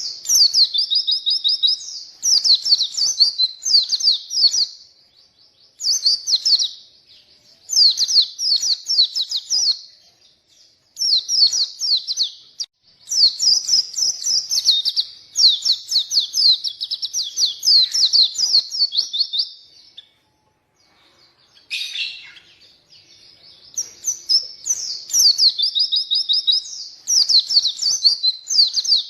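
White-eye (pleci) singing energetically in rapid, high, warbling phrases of a few seconds each, separated by short pauses. There is a longer break about twenty seconds in, then a single sharp note before the song picks up again.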